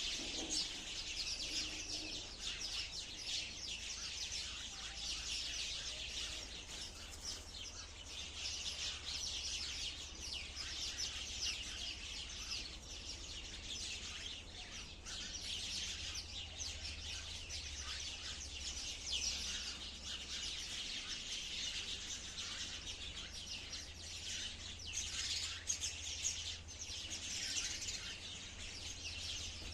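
A flock of sparrows chirping continuously, many short overlapping chirps at once.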